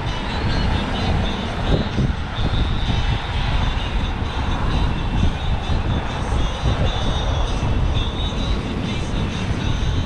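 Steady wind buffeting on a GoPro action camera's microphone while cycling at about 10–12 mph, a loud low rumble with road noise under it.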